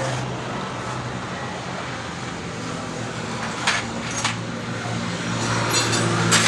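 A steady low mechanical hum, with two short sharp metallic clicks a little past the middle, typical of a spanner being set on the bolts of a motorcycle's clutch cover.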